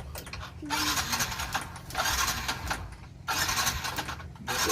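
Suzuki Smash motorcycle engine, heard as three loud, noisy bursts about a second long each, with short breaks between them.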